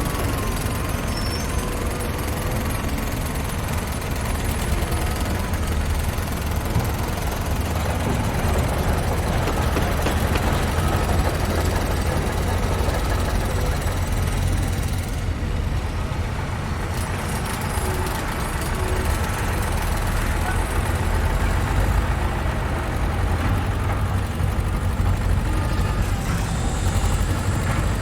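Construction site ambience: a heavy engine running steadily with a deep, continuous rumble under general site noise.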